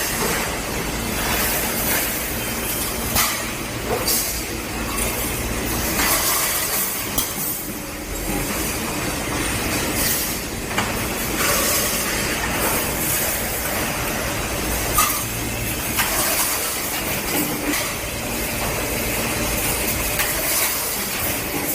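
Mattress-making machinery running: a steady mechanical hum and hiss with frequent irregular clacks.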